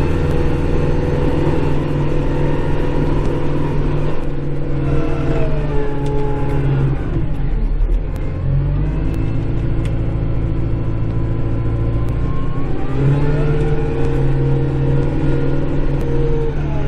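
Kubota Grand L5740 tractor's diesel engine running, heard from inside the cab. Its pitch drops about five seconds in and climbs again near the end as the engine speed changes.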